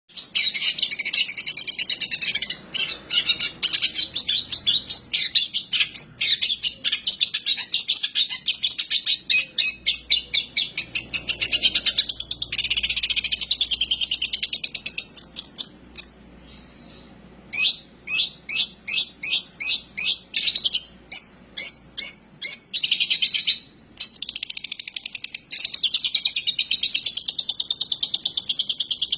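Long-tailed shrike (cendet) singing a fast, chattering song of rapid chips and trills, broken by a short lull about midway, then a run of quick evenly spaced chips and wavering warbled phrases near the end.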